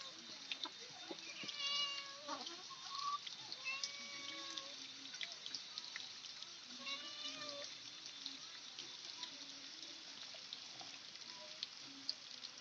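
A cat meowing several times, in drawn-out calls that bend in pitch, over a faint background hiss.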